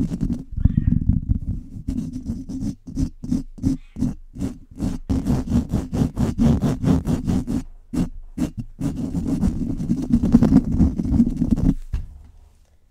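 Rapid, hard scratching directly on a microphone, a dense low rubbing noise. About three seconds in it breaks into separate quick strokes for a couple of seconds, runs dense again, and stops shortly before the end.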